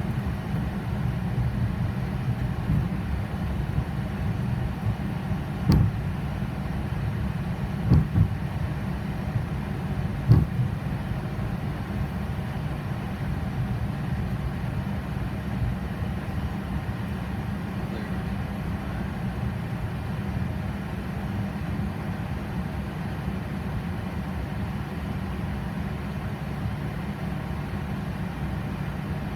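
Steady low rumble of a Boeing 737 on its idling engines as it taxis, heard from inside the flight deck. A few brief knocks come between about 6 and 10 seconds in.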